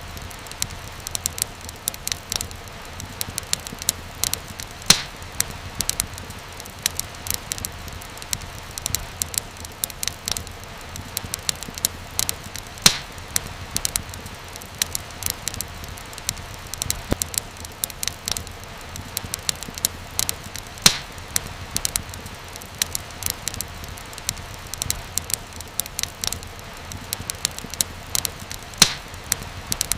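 Wood fire crackling: a dense run of small crackles, with a louder sharp pop every few seconds, over a steady low hiss.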